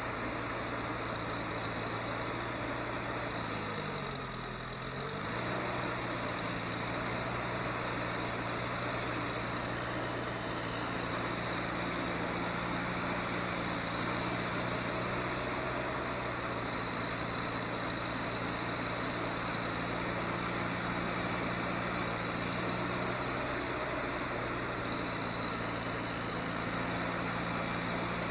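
A heavy vehicle's engine running steadily, its pitch dropping and coming back up once about four seconds in.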